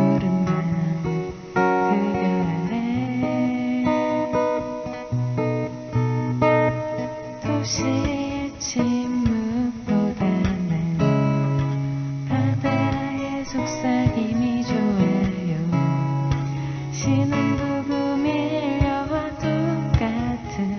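Acoustic guitar strummed in a steady rhythm, accompanying a live singer whose voice is faint under the guitar; the host puts the weak vocal down to the singer wearing a mask.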